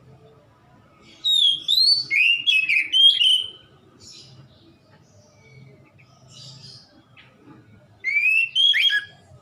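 Oriental magpie-robin (kacer) singing: a loud run of sliding, whistled phrases about a second in, soft chirps after it, and a second short run of loud whistles near the end.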